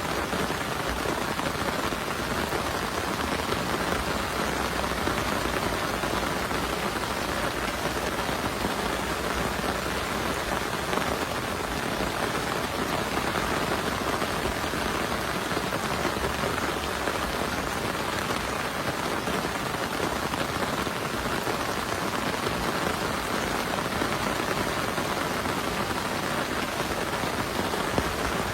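Heavy rain falling steadily, a dense, even patter with no break or thunderclap.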